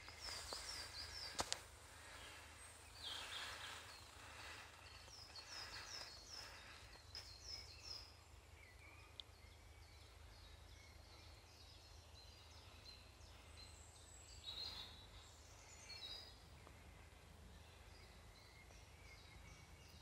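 Faint birdsong: birds singing phrases of quick, repeated high notes, over a low steady rumble, with two sharp clicks about a second and a half in.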